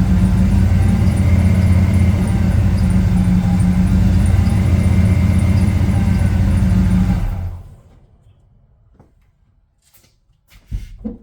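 Chevrolet 454 SS pickup's 7.4-litre big-block V8 running steadily, then dying out after about seven and a half seconds; the owner believes it has run out of fuel. A few faint knocks follow near the end.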